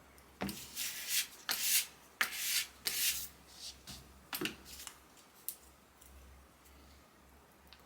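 Short hand strokes rubbing across wood, like hand sanding of a wardrobe's wooden surface, in a quick series of about eight strokes that stops about five seconds in.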